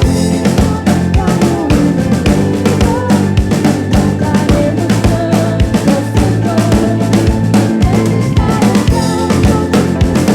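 Live soul band playing, with a drum kit's kick and snare driving a steady beat under bass and other melodic instruments.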